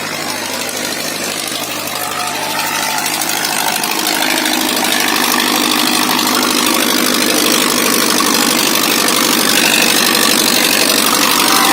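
Farmtrac 6055 tractor's diesel engine running steadily, growing gradually louder, with its note changing about four seconds in.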